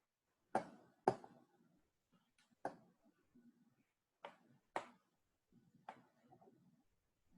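A quiet pause broken by about seven sharp taps or clicks, mostly in pairs about half a second apart, with faint rustling between them.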